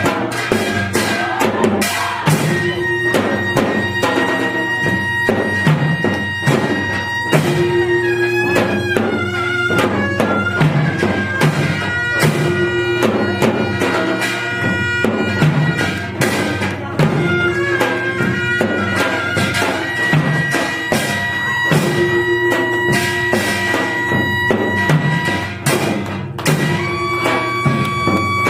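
Korean traditional music for a Jindo drum dance: a reedy wind instrument plays long held, wavering notes over a steady run of drum strokes.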